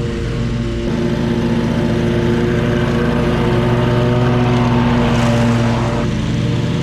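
Lawn mower engine running steadily under throttle. Its pitch steps up about a second in and drops back near the end.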